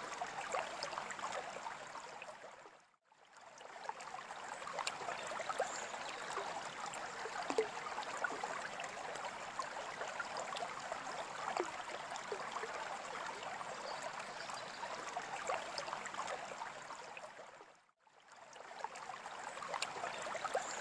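Water trickling and bubbling steadily, with many small splashy ticks. It fades out to silence about 3 seconds in and fades back up, then does the same near the end.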